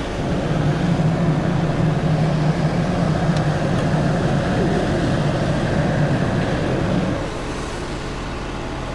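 Wood-Mizer LT35 portable sawmill and its dust blower running. A louder, lower hum holds for about seven seconds, then drops back to a steadier running level.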